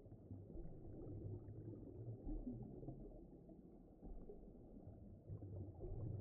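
Low, muffled rumbling ambience, slowly swelling and fading, with nothing bright above it: an underwater ocean soundscape.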